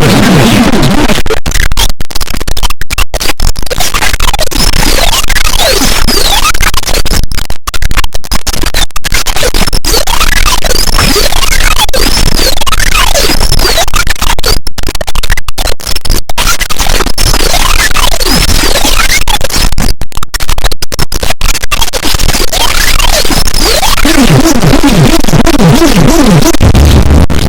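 Harsh noise music: a very loud, dense wall of static with repeated swooping tones that rise and fall, broken by many sudden brief cut-outs.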